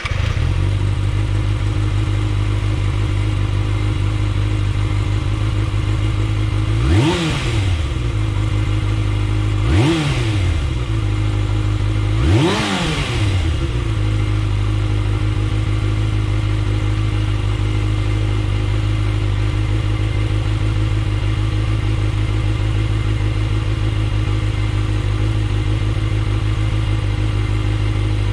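Kawasaki ZX-6R inline-four engine idling through an Akrapovič titanium slip-on exhaust, with three quick throttle blips a few seconds apart, each rising and falling in pitch, before it settles back to a steady idle.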